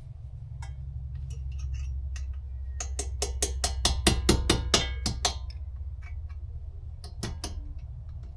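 Hammer striking an Allen key used as a drift to drive the ball joint pinch bolt out of a Mazda 6 steering knuckle: a quick run of about a dozen sharp metallic strikes, then a few more near the end.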